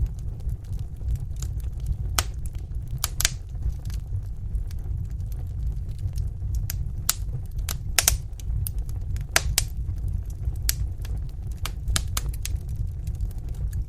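Wood fire crackling in a fireplace: irregular sharp pops and snaps, a few louder ones scattered through, over a steady low rumble.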